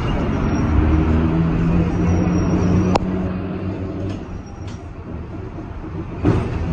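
New Orleans 900-series electric streetcar running, heard from inside the car: rumbling wheel and track noise with a steady hum for the first few seconds that ends with a sharp click about three seconds in, and a sharp knock near the end.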